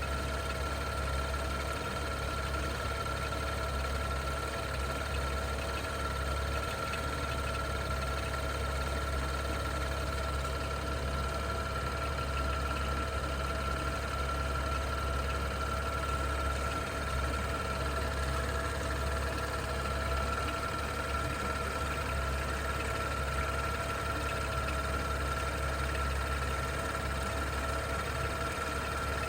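BMW 640i's N55 turbocharged straight-six idling steadily with a tick-tick noise, which the owner suspects comes from the vacuum pump. A steady high whine runs alongside the idle.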